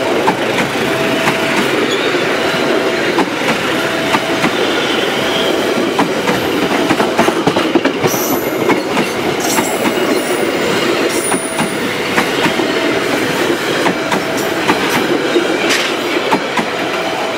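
Passenger train coaches rolling past close by, a steady loud rumble with wheels clicking over the rail joints. A short tone repeats about every second and a half.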